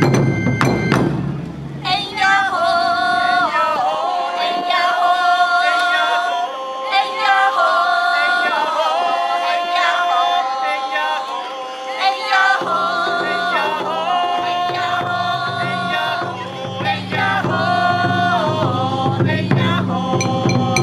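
Japanese taiko ensemble music. Drums and ringing metal percussion sound for the first couple of seconds. Then a high, solo melody of held notes with bends and ornaments takes over, in the manner of a bamboo shinobue flute. About two-thirds of the way through, a low steady drum layer comes back in under the melody.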